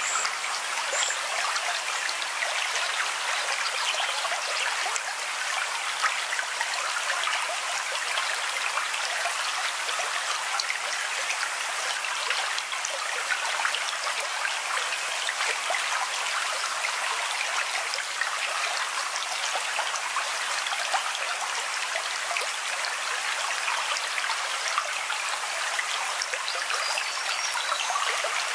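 Steady running water of a stream: a light, even flow with fine splashing detail and no deep roar.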